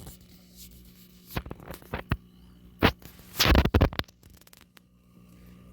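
A few sharp clicks and knocks, then a brief rough scrape about three and a half seconds in, over a faint low steady hum.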